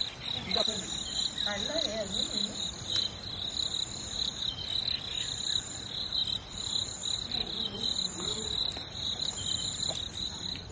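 Crickets chirping in a continuous high-pitched pulsing trill, with faint voices in the background.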